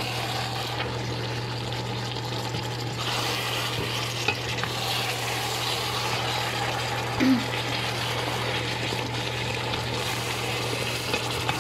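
Chicken pieces sizzling and bubbling in a pot as they simmer in their own juices and oil, over a steady low hum, with a brief knock about seven seconds in.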